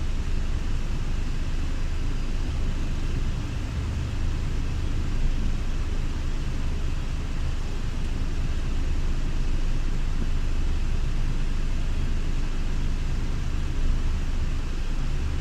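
Scania Irizar i6S coach's engine running steadily at a low rumble with no revving, as the coach moves slowly in reverse.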